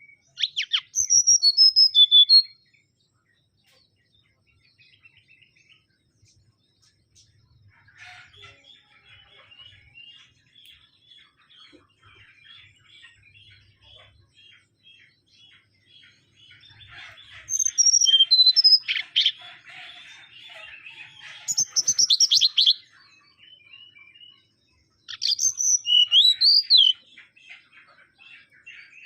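Mangrove whistler singing: four loud phrases of quick whistled notes, some gliding up or down, with a quieter, fast twittering chatter running between them from about eight seconds in.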